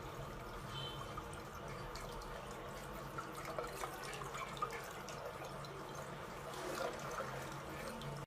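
Water trickling and dripping, a steady wash with scattered small drip ticks.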